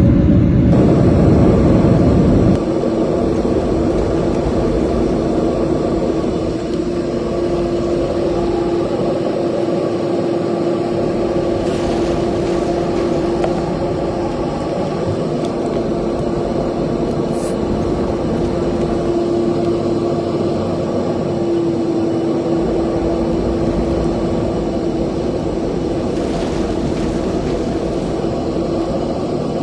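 Steady engine drone with a constant hum. A heavier low rumble drops away about two and a half seconds in.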